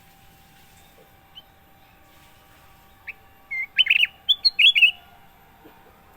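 Kutilang emas, a bulbul, singing one short phrase of quick, clear notes that lasts under two seconds, about three seconds in, after a single faint note.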